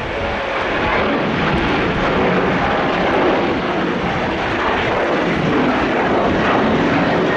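Jet airliner's engines heard from beside the runway: a loud, steady rushing noise that builds slightly over the first second and then holds.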